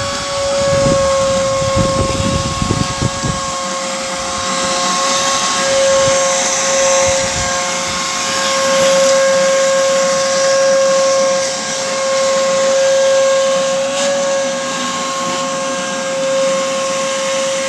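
A machine's electric motor running steadily: a constant high whine over a hiss. There are low knocks and rumbles in the first few seconds.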